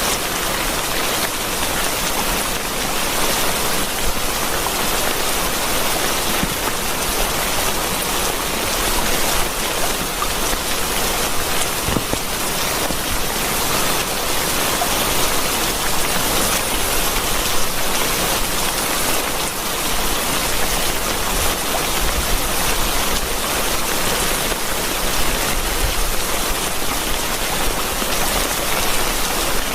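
Steady rain falling, a dense even hiss of countless drops that holds level throughout.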